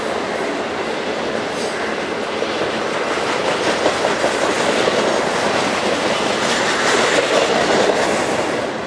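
Freight train of covered hopper cars rolling past, with a steady rumble and clatter of steel wheels on the rails.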